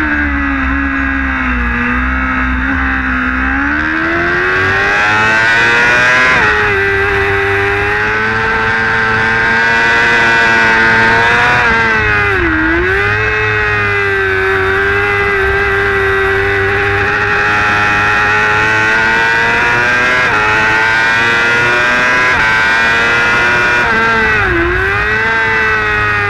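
Superstock racing motorcycle engine heard from an onboard camera at race speed, running hard at high revs. The pitch sinks in the first couple of seconds, climbs again, then holds high. It dips sharply and recovers twice, about halfway through and near the end, over a steady rush of wind and road noise.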